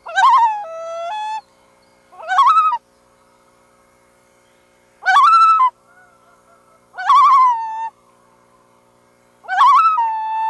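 Loon calling repeatedly: five short calls about two seconds apart, each opening with a quick wavering warble and most ending on a held note.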